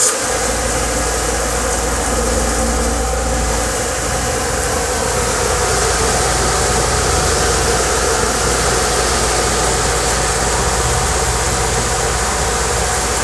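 Commercial dishwasher running a wash cycle: a loud, steady motor hum under an even rushing noise, without a break.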